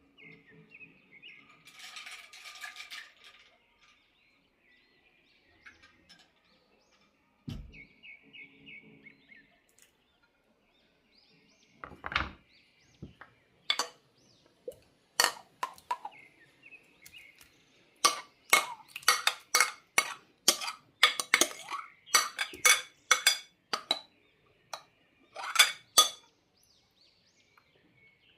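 Kitchen dishes and cutlery clinking and knocking: a series of sharp clinks that grows busier and louder in the second half.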